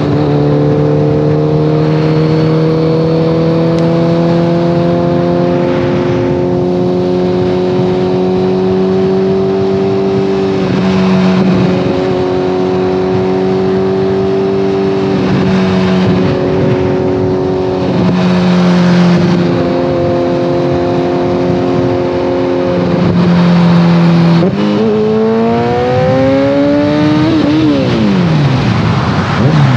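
2014 Kawasaki ZX-14R inline-four through a Brocks Alien Head 2 full exhaust, running at steady cruising revs with the pitch creeping slowly up. Near the end it revs up hard, drops, and climbs sharply again.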